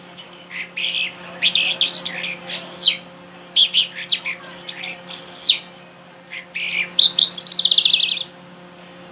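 A songbird singing in short bursts of high chirps and warbled notes, with a fast falling trill about seven seconds in.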